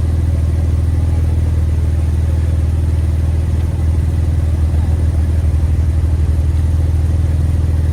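A vehicle engine running with a steady low rumble; about halfway through it takes on an even pulsing beat for a few seconds.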